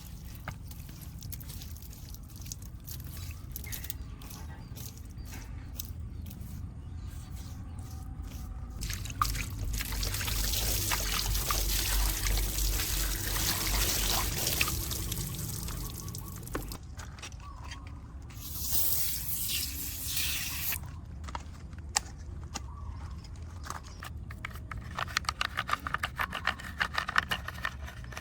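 Water running and spraying over a muddy diecast model car as it is washed, loudest for several seconds in the middle, with a short hiss of spray later. Quick small clicks and scrapes of handling or brushing come near the end.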